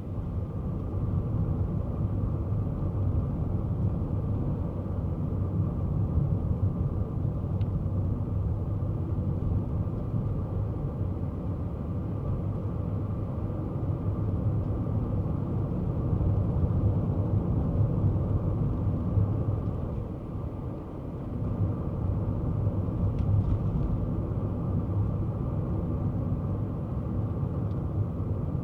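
Kei car driving, its engine and road noise making a steady low rumble that dips briefly about twenty seconds in.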